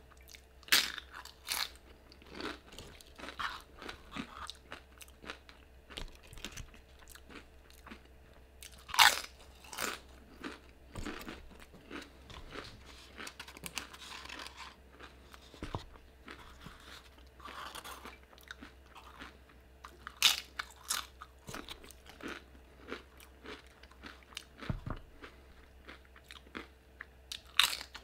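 Close-up chewing and crunching of tortilla chips with guacamole: irregular crisp crunches and wet mouth sounds, with a few much louder bites.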